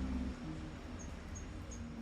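Background music cutting off just after the start, leaving a faint low rumble with a run of faint, evenly spaced high chirps, about three a second.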